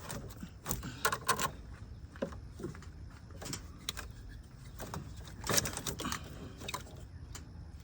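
Scattered clicks, knocks and light clatter of car parts and hand tools being handled and wiggled during repair work, with a denser burst of clatter about five and a half seconds in.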